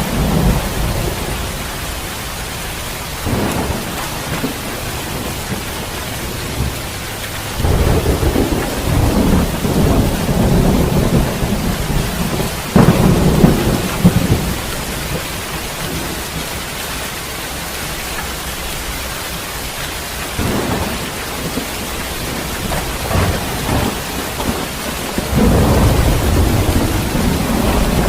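Steady heavy rain with thunder rumbling several times. The longest roll comes in the middle, with two sharp cracks near its end.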